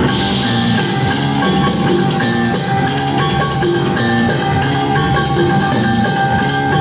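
Live rock band playing an instrumental passage: drums keeping a steady beat under long held high notes.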